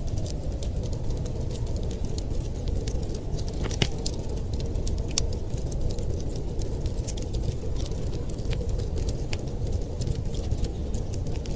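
Fire crackling, with scattered sharp snaps and a stronger pop about four seconds in, over a steady low rushing noise.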